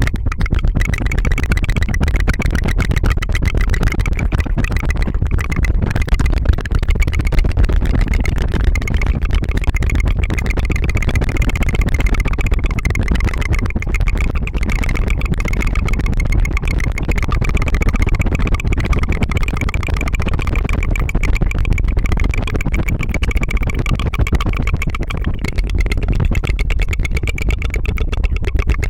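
Tongue fluttering ASMR mouth sounds: a fast, continuous rattling trill that buzzes like an idling engine.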